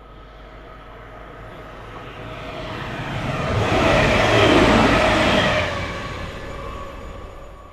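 TransPennine Express Class 185 diesel multiple unit passing at speed. Its noise builds, is loudest about four and a half seconds in, then fades as it draws away.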